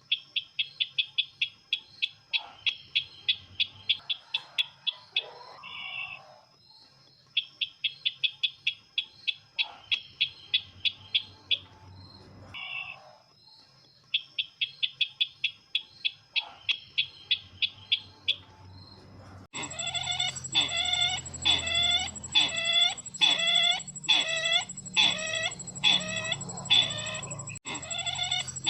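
Bird call of the sisintar ladang: rapid trills of sharp, high notes in bursts of two to three seconds, repeated every few seconds. Near the end it switches abruptly to a louder, slower series of repeated calls, about two a second, with a steady high whine behind them.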